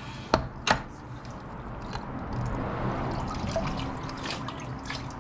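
Coolant running out of a Nissan 240SX's cooling system and splashing, the flow swelling toward the middle and easing off. Two sharp knocks in the first second.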